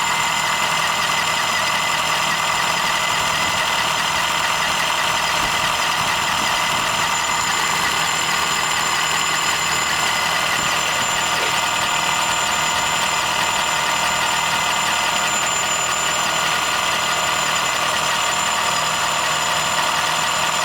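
Honda Fit 3 Hybrid (GP5) engine running steadily with an abnormal noise: an unchanging high-pitched whine of several tones over the running sound.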